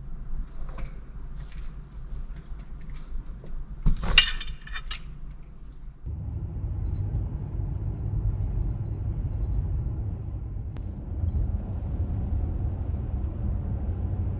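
Small jingling clicks and a sharp metallic clatter, then from about six seconds in the steady low rumble of a car driving.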